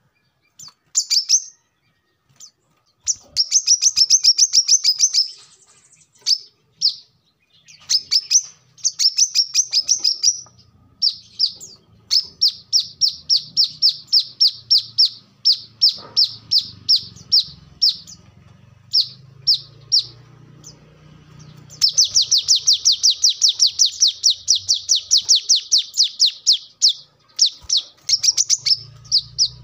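Brown-throated sunbird (kolibri kelapa) singing: rapid high-pitched trills of sharp chirps, about ten a second, in bursts of one to several seconds, with one longer trill of about five seconds past the middle.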